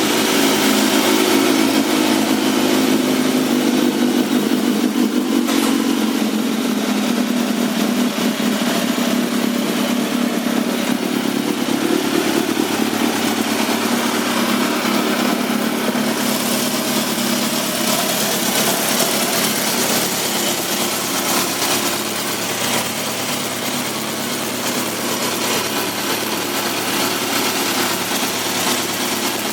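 2003 Suzuki GSX-R1000's inline-four engine idling steadily through an aftermarket Yoshimura exhaust, shortly after starting.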